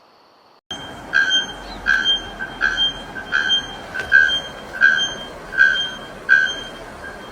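A bird giving a short, pitched call over and over, about one and a half calls a second, over a steady background hiss.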